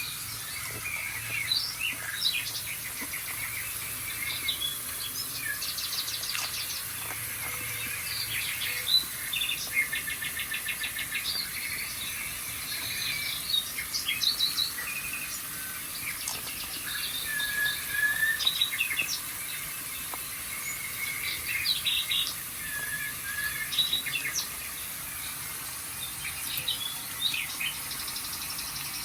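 Many small songbirds chirping and trilling, short calls overlapping one another with brief pauses between bursts.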